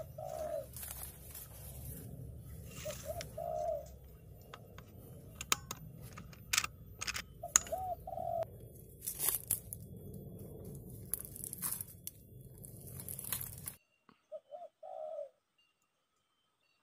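Spotted dove cooing: a short two-to-three-note coo, heard four times several seconds apart, over scattered clicks and rustling.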